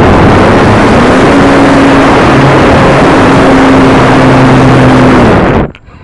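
Very loud, distorted rush of airflow and motor noise from an RC combat plane in flight, heard close up, with a steady motor drone that rises slightly about a second in. It cuts off abruptly near the end.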